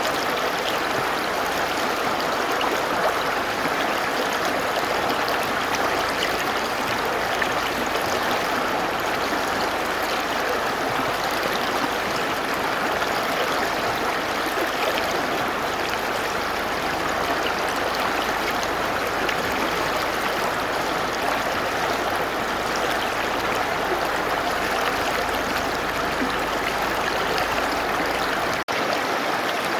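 Mountain river rushing and splashing over rocks in a steady, dense roar of water, with one momentary break in the sound near the end.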